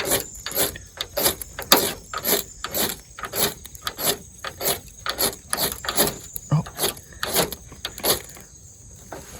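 A blade scraping repeatedly in quick strokes, about two a second, as in shaving a feather stick or striking a ferro rod.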